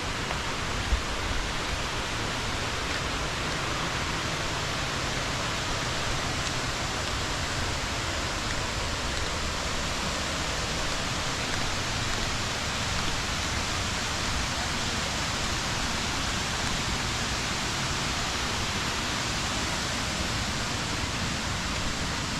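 Steady rush of water from a small waterfall, with a brief low thump about a second in.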